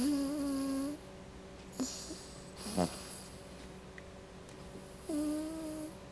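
A sleeping dog snoring: two long snores with a steady whistling tone, one at the start and one about five seconds in, with a short fluttering snort in between.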